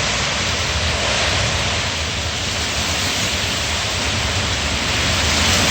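Strong wind rushing steadily, building slightly near the end.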